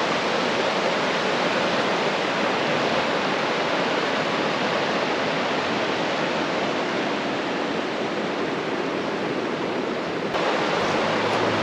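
River water rushing steadily, a constant hiss of flowing water that shifts abruptly about ten seconds in.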